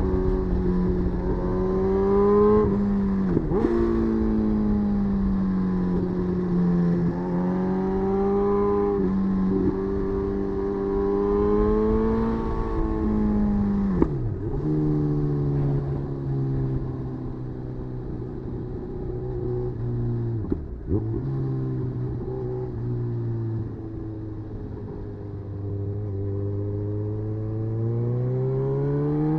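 Suzuki GSX-S950's inline-four engine running, its pitch slowly rising and falling with the throttle, with sudden short dips in pitch about three and a half, fourteen and twenty-one seconds in, and lower-pitched running for the second half.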